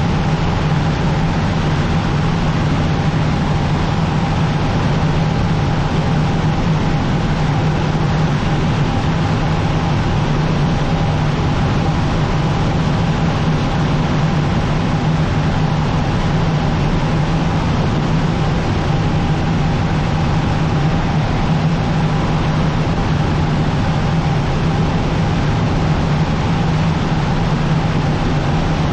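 Cessna 150's Continental O-200 four-cylinder engine and propeller droning steadily, heard inside the cabin along with the rush of air.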